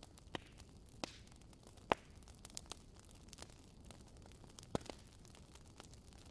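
Wood fire crackling in a fireplace: a soft steady hiss with irregular sharp pops and snaps, the loudest about two seconds in.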